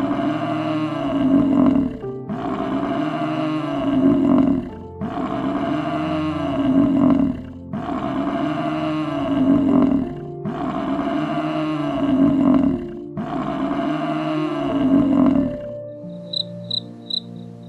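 A big cat roaring six times in a row, each roar about two seconds long and much alike, over background music.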